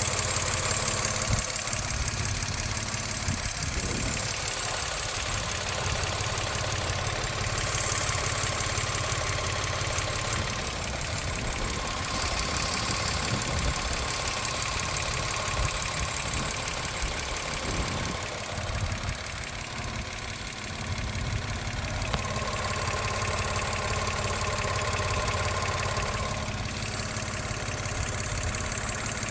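2021 Mitsubishi Mirage's 1.2-litre three-cylinder engine idling steadily, heard with the hood open. A faint whine comes and goes over it. The owner asks whether this idle is rough.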